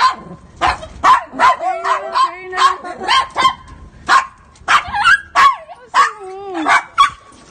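A dog barking repeatedly, about a dozen sharp barks roughly half a second apart, with whining in between some of the later barks.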